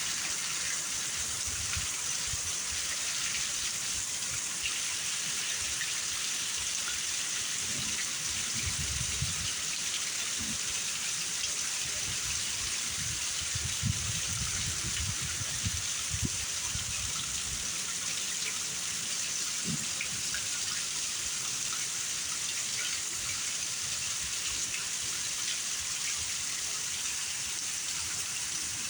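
Heavy rain pouring down in a thunderstorm, a steady hiss, with low rumbles coming and going twice near the middle.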